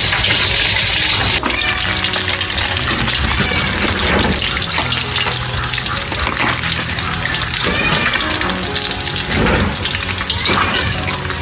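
Background music over oil sizzling as tilapia fries in a wok; the sizzle takes over about a second and a half in.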